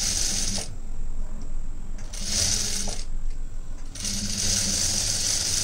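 Sewing machine stitching in three short runs with pauses between, the last run the longest.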